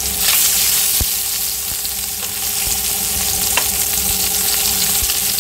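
Masala-stuffed bitter gourds frying in hot oil in a stainless steel kadhai, a steady sizzle, with two light knocks as a wooden spatula nudges them about a second in and past halfway.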